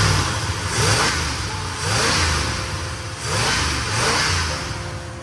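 1979 Ford F350's engine revved through chopped-off exhaust pipes, about four throttle blips roughly a second apart. A steady musical tone comes in near the end.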